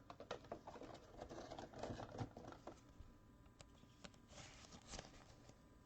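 Faint rustling and small clicks of trading cards being handled and slid over one another, densest in the first couple of seconds, with one more short rustle near the end.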